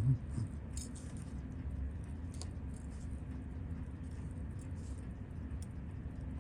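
Steady low electrical hum with a few faint, sharp clicks a second or more apart: small metal tools and parts being handled while a Seiko 7A28 quartz chronograph movement is taken apart. A brief low hum of a voice right at the start.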